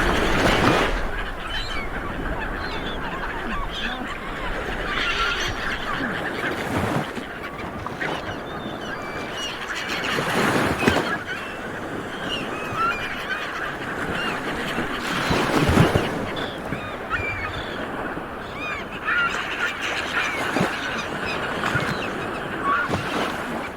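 A dense flock of seabirds calling all at once: many short overlapping calls blend into a continuous chorus, with a few louder close calls standing out, the loudest about two-thirds of the way through.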